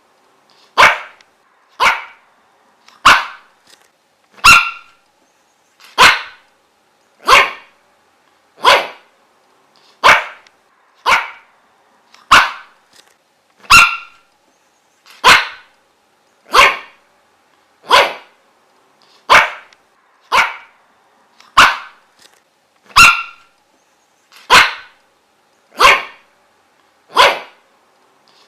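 A dog barking single sharp barks at a steady, even pace, about one bark every second and a half, some twenty times over.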